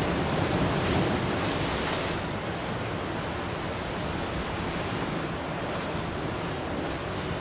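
Ocean surf: a wave washes in, a little louder over the first two seconds, then settles into a steady rushing wash.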